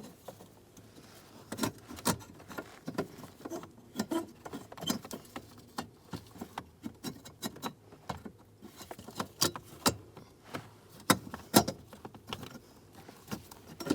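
Car keys jangling on their ring, with scattered small clicks and taps of plastic and metal parts being handled during an ignition lock cylinder replacement.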